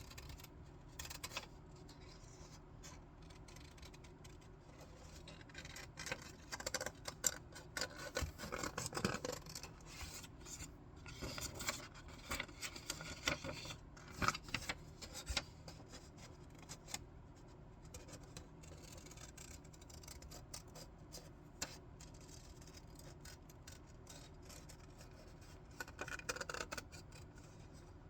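Scissors snipping through paper, with the rustle of the paper being handled. The snips come in clusters, the busiest through the middle and a short run near the end.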